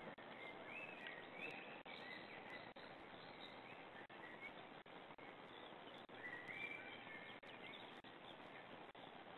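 Faint birdsong over a steady hiss: short chirping phrases, several in the first three seconds and a longer one about six seconds in.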